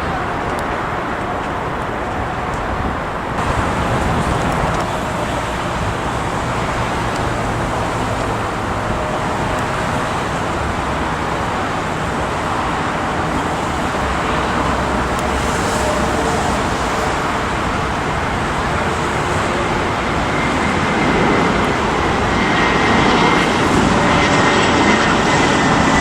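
Jet airliner engines heard over a steady rushing noise. A high whine comes in about 20 seconds in, and the sound grows louder toward the end.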